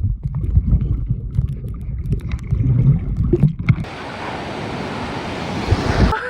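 Wind rumbling on the microphone with scattered knocks, then, after a sudden change about four seconds in, a steady rushing of ocean surf.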